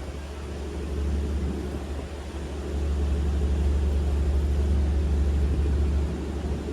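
A river ferry boat's engine running steadily, a low hum with a deep rumble that swells for a few seconds in the middle.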